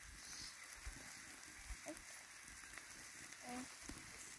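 Faint, steady sizzle of food frying in oil in a pan, with a couple of brief faint voices.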